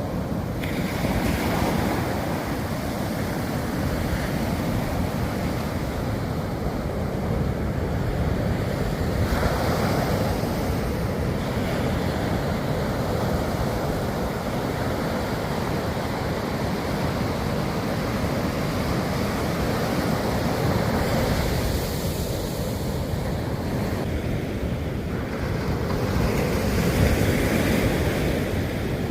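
Ocean surf: waves breaking and washing in continuously, swelling and easing every several seconds.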